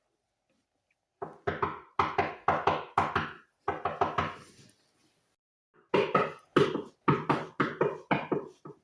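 Knocking on a window in runs of sharp, decaying knocks: about five starting a second in, a pause, then a longer, quicker run near the end.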